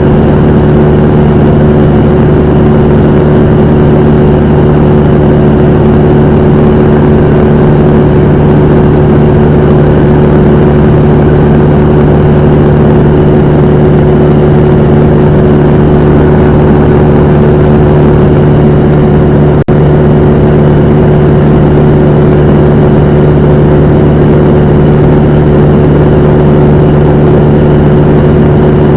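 Cessna 172M's four-cylinder Lycoming O-320 engine and propeller running at a steady, loud drone. The sound cuts out for an instant about twenty seconds in.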